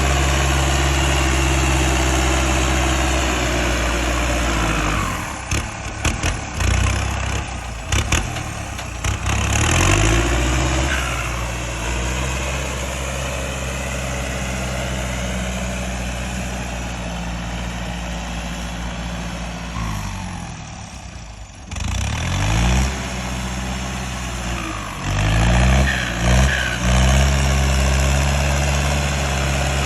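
Kubota M6040SU tractor's turbocharged diesel engine running steadily, revving up and down several times about five to ten seconds in and again after a brief drop in engine speed a little past twenty seconds.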